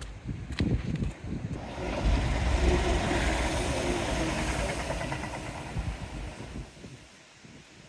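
A train passing along the seawall railway: a rumble that swells in about two seconds in, stays loud for a few seconds, then fades away as it goes by.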